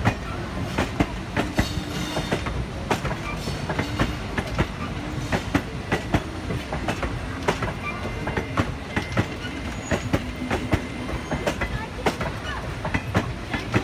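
Indian Railways passenger coaches rolling past, their wheels clicking over the rail joints in an uneven run of sharp clacks over a steady low rumble.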